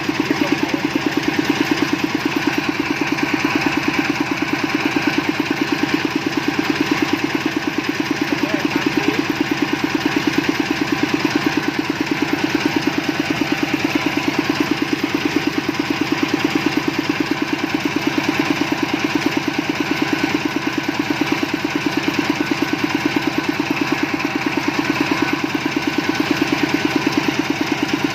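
Engine of a water-well drilling rig running steadily at a constant speed, with an even pulsing beat.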